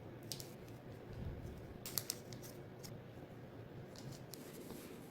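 Origami paper being handled and creased: a few short, crisp crackles and taps over a steady low hum.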